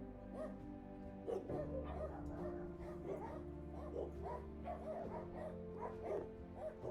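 Background music with sustained notes, over a litter of puppies yipping and whimpering in many short, high squeaks.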